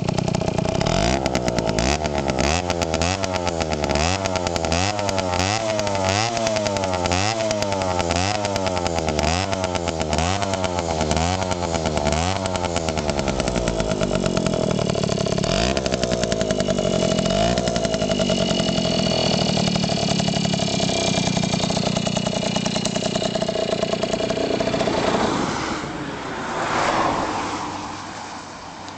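Suzuki K50's small two-stroke single-cylinder engine being revved in quick repeated throttle blips, about one a second, then settling to a steady idle. The sound fades away near the end.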